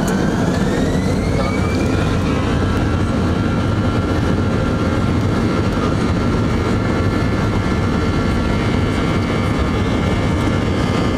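Airliner jet engines spooling up to takeoff thrust: a whine rises in pitch over the first two seconds, then holds steady over a loud, even rumble.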